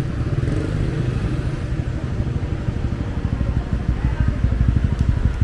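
Street traffic noise, a steady low rumble of passing motorbike and car engines.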